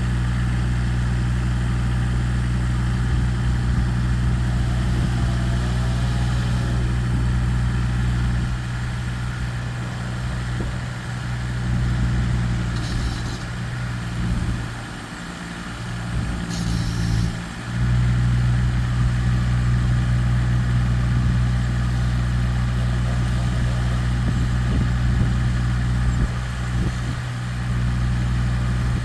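A large engine running steadily at idle with an even low hum, dipping briefly in level about halfway through.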